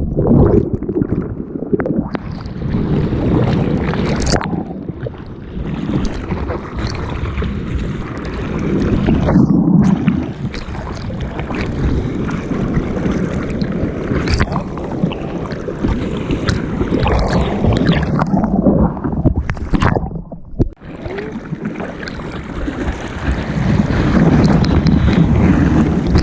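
Seawater rushing and splashing around a board-mounted action camera, with wind buffeting the microphone. It swells and falls in loudness throughout, and cuts out sharply for a moment about three-quarters of the way through.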